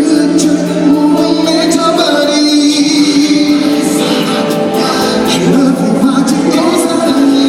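Live performance of a Korean pop song: a male singer's vocals over the song's backing music.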